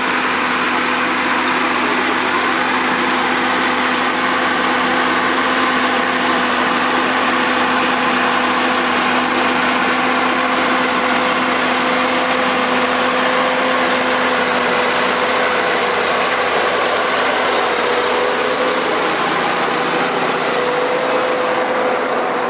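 Fiatagri 180-90 Turbo DT tractor's turbocharged six-cylinder diesel running at a steady speed with an even, unbroken note.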